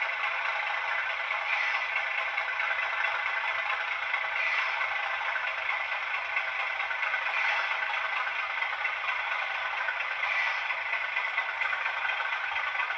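English Electric 12CSVT V12 diesel engine of a Class 37 locomotive running steadily, its noise swelling slightly about every three seconds.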